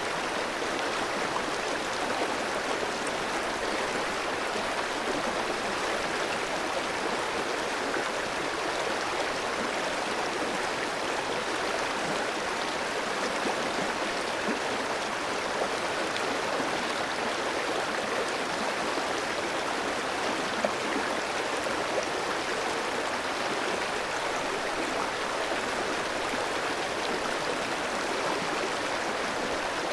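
Clear stream flowing over rocks: a steady rush of running water with small splashes and gurgles.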